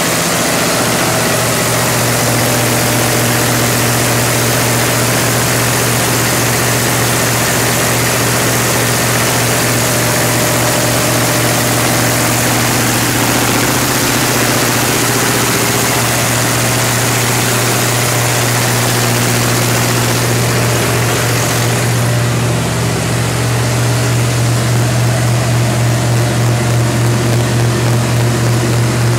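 Generac 45 kW natural-gas generator set running steadily with a loud low hum and a broad mechanical hiss. About three quarters of the way through, the high hiss drops away and the hum takes on a slight regular pulse.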